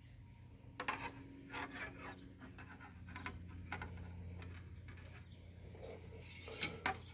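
Light scratching and rubbing handling noises, with small clicks scattered throughout and a louder scrape near the end, over a steady low hum.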